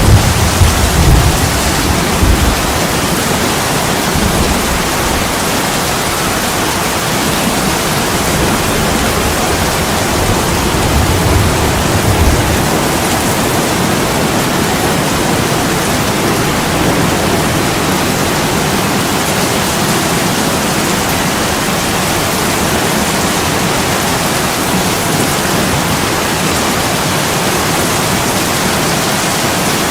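Steady heavy rain pouring on an attic window, an even hiss without a break. Low rumbles swell in the first two seconds and again about ten seconds in.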